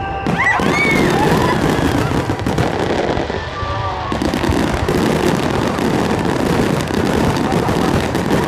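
Fireworks display going off in a dense, unbroken run of bursts and crackling.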